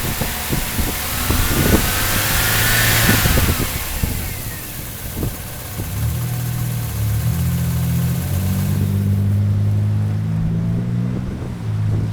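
1997 Chevrolet Cavalier's 2.2-litre engine running rough with a multiple-cylinder misfire, the sign of a failing ignition control module that fires only one of its two coil packs. It gives irregular low thumps under a hiss at first, then from about halfway a steadier hum that shifts up and down in pitch a few times.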